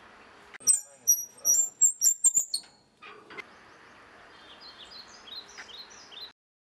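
Outdoor ambience with birds calling. A burst of sharp, high clicks and shrill chirps comes about half a second in and lasts about two seconds, then a quick run of short rising chirps follows. The sound cuts off abruptly near the end.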